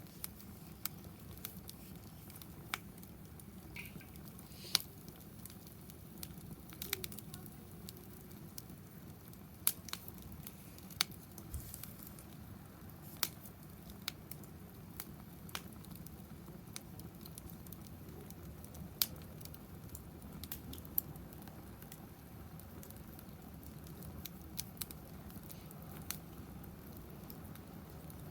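Wood fire burning in a fire pit stand, crackling with irregular sharp pops over a low steady rush.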